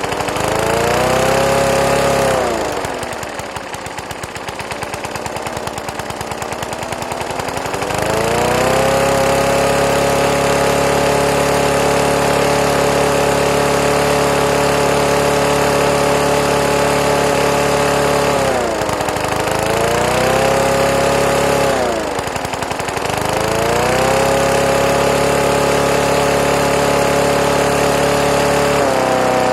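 A 3 hp Briggs & Stratton flathead lawn mower engine running at a steady high speed. A few seconds in it slows to a lower, slower-firing run for about five seconds, then speeds back up. Later it dips and recovers twice more.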